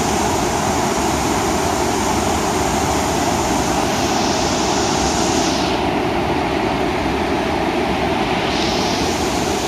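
Rushing whitewater of a rain-swollen creek, a steady loud hiss; the high part of the hiss dulls for a couple of seconds about six seconds in, then comes back.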